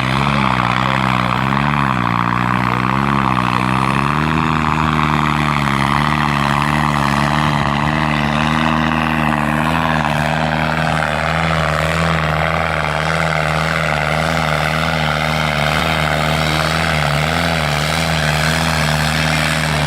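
New Holland tractor's diesel engine running hard, a steady drone whose pitch wavers over the first few seconds and then holds level.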